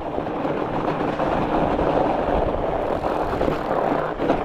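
Steady rushing noise of a fatbike rolling across a frozen, snow-covered lake in strong wind: wind buffeting the microphone over the hum of the fat tyres.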